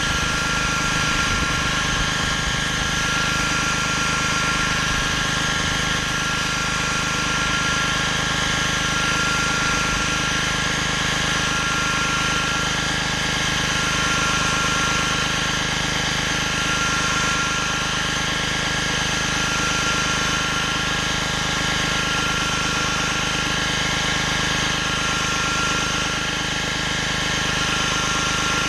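Gas-engine pressure washer running steadily under load, with the hiss of high-pressure water spraying onto concrete, the spray sound wavering slowly as the cleaning passes move.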